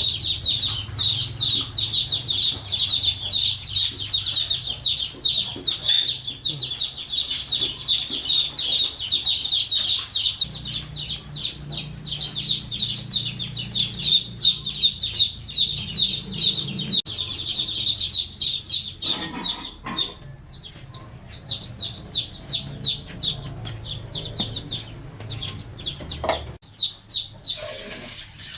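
Chickens calling: a dense stream of high, rapid peeping over lower clucking, the peeping dying away about two-thirds of the way through.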